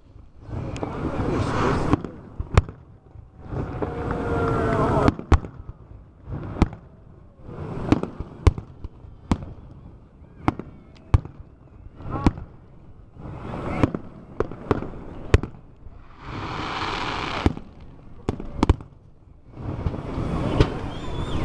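Fireworks display: a string of sharp bangs from shells bursting, some coming in quick runs, with stretches of hissing, crackling noise lasting a second or two in between.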